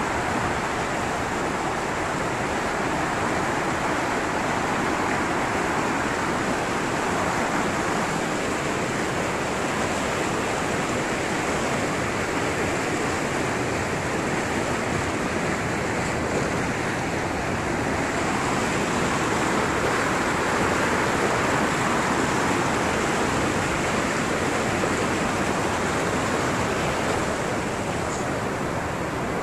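Fast-flowing stream rushing over rocks, running high and strong after flooding: a steady, unbroken rush of water.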